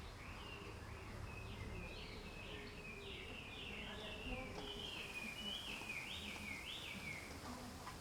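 A small bird singing a fast run of short, high chirping notes that slide down and up, one after another, over faint steady background noise.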